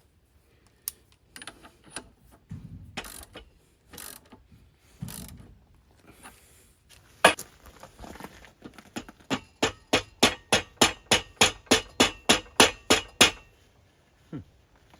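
Hand tools working metal on a hydraulic cylinder: a few scattered knocks and clatter, then a steady run of about fifteen sharp metallic clicks, roughly three to four a second, that stops near the end.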